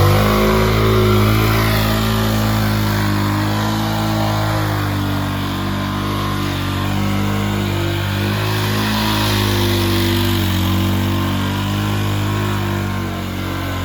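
Mini bike's small engine running at a steady, held throttle, its pitch holding fairly even with slight dips, easing a little near the end.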